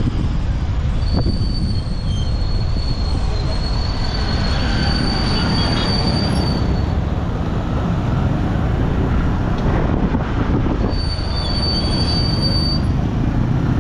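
Rumble of a boda boda motorcycle ride through city traffic, with a thin, high-pitched squeal held for about six seconds starting a second in, and again for about two seconds near the end.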